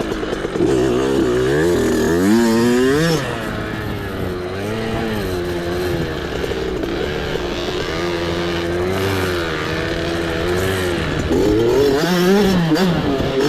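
Small off-road mini bike engine running under load, its pitch rising and falling with the throttle as it is ridden, with sharper revs about two seconds in and again near the end.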